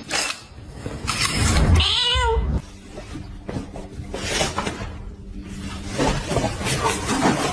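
A domestic cat meows once about two seconds in: a single drawn-out call of about half a second with a wavering pitch. Scattered knocks and noise run underneath.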